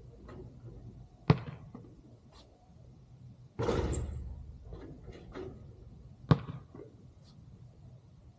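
A basketball bouncing sharply on the court twice. Between the bounces there is a louder, longer hit that rattles and dies away, as a shot strikes the backboard and rim.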